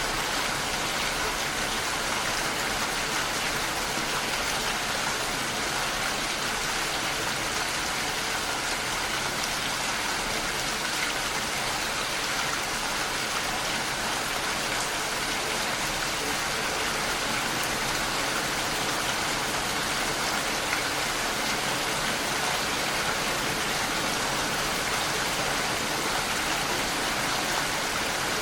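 Steady rain falling: an even, constant hiss of rain with no breaks or single events.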